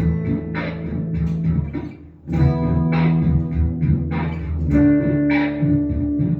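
Electric guitar played through a Boss SY-200 guitar synthesizer pedal on a synth preset: picked chords and notes with sharp attacks. The playing stops briefly about two seconds in, and a held note rings from about five seconds in.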